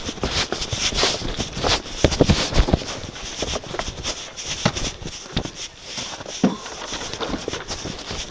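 Snow shovel scraping and chopping at packed snow, with irregular knocks and crunches and a steady hiss behind them.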